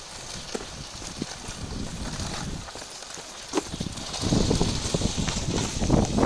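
Small 3D-printed ground vehicle driving over rough ground: scattered clicks, then a dense, irregular clattering that gets louder about four seconds in.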